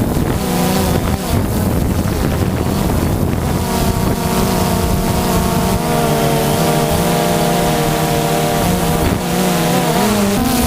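A boat motor runs steadily, with wind buffeting the microphone. The motor's pitch rises slightly near the end.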